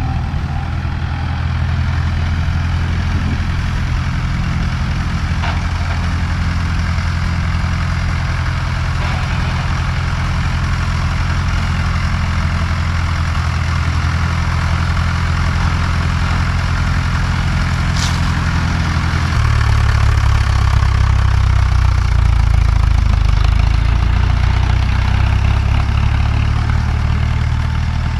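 1954 Fordson tractor engine running steadily while the tractor is driven. About two-thirds of the way through, its note drops lower and it gets a little louder.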